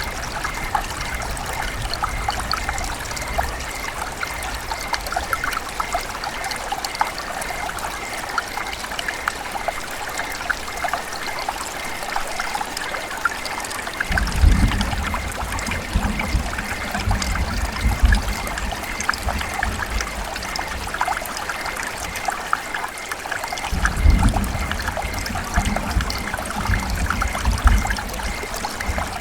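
River water running and trickling: a steady babble of many small splashes. A low rumble swells in twice, about halfway through and again near the end.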